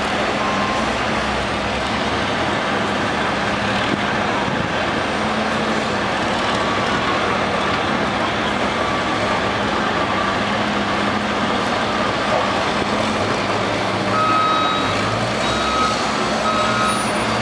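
Heavy diesel oilfield trucks running steadily under load, with a truck's reversing alarm beeping at the very start and again in the last few seconds.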